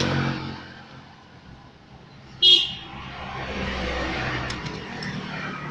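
Road vehicle noise with a fading low drone at the start, cut through about two and a half seconds in by a short, loud, high-pitched toot.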